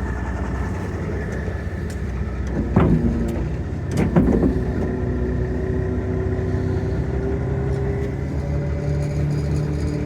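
Engine running steadily, with two loud knocks about three and four seconds in.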